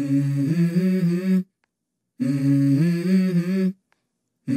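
Music: a hummed vocal phrase opening a song, about a second and a half long, heard twice with short silences between and starting a third time at the end.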